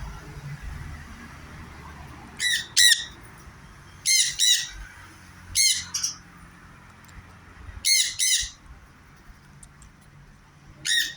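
Sun conure giving shrill, harsh screeching calls, mostly two in quick succession, repeated about every one and a half to two seconds.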